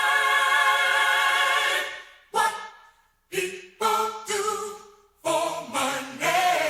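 Unaccompanied voices singing in harmony. A long held chord fades out about two seconds in, then short sung phrases follow, separated by brief pauses.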